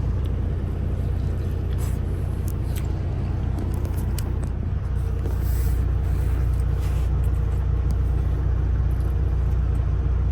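Semi truck engine idling, a steady low hum, with a few faint clicks over it.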